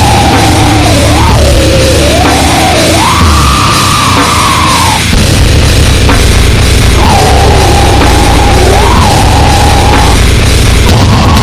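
Goregrind noise music: a loud, constant wall of harsh distorted noise with a single wavering tone gliding up and down above it. The tone breaks off about five seconds in and comes back about two seconds later.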